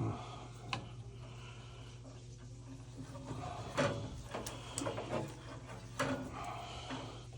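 Light clicks and knocks of parts and tools being handled, several separate ones, over a steady low hum.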